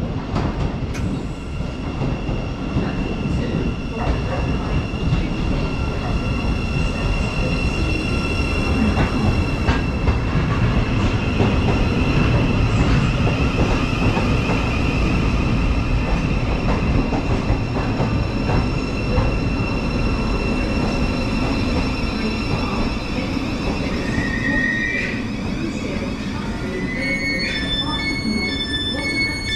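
Great Northern Class 717 electric train pulling into the station and braking to a stop. Wheels and motors rumble, louder as it passes alongside, with a high whine that slowly falls in pitch as it slows. Near the end there are repeated beeping tones as the doors are released.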